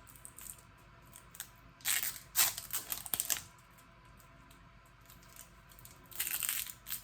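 Tape being peeled off and crumpled up. There are two bursts of tearing, crinkling noise, about two seconds in and again near the end.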